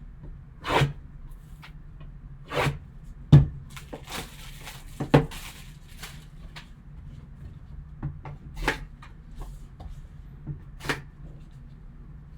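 Hands opening a trading-card box and handling its cardboard and plastic packaging. Scattered sharp clicks and knocks come through, with a couple of seconds of rustling around the middle.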